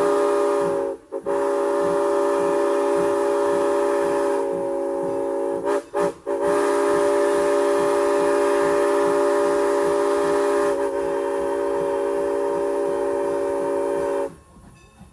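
Steam whistle of former Norfolk and Western 4-8-0 No. 475 sounding a chord of several tones, in three blasts: a short break about a second in, another about six seconds in, then one long blast that cuts off near the end. A low, regular beat of about three a second runs underneath.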